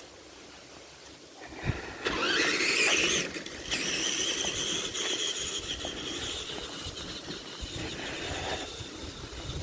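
Tamiya TXT-2 RC monster truck's electric motor and gears whining as it drives: a knock, then a whine rising as it speeds up about two seconds in, then a steady high whine for several seconds, with the rumble of the tyres over rough ground, easing off near the end.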